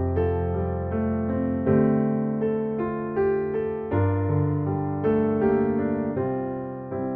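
Background music: a gentle piano or electric-piano piece, notes struck every half second or so and left to ring and fade.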